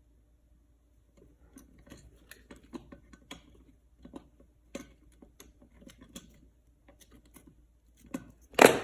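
Pocket knife cutting and scraping the plastic insulation off electrical wires: a run of small, irregular clicks and scrapes, with one louder sharp sound near the end.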